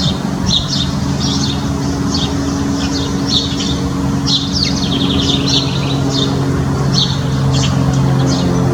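Backyard songbirds chirping in many quick, high-pitched notes over a steady low mechanical hum.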